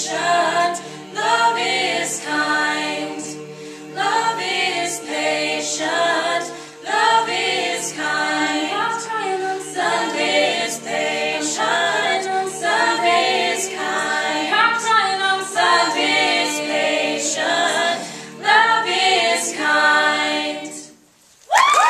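A cappella vocal group singing, held low notes under changing sung phrases, with sharp clicks marking a steady beat. The singing stops about 21 seconds in, and cheering breaks out near the end.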